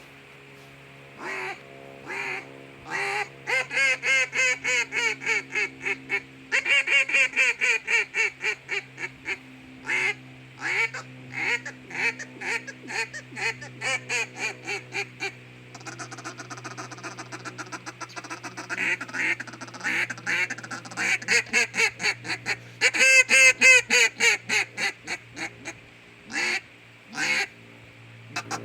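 Duck Commander Timber Cutdown double-reed duck call blown in runs of loud, sharp quacks, each note dropping in pitch. Past the middle there is a softer, faster stretch of notes, then another loud run.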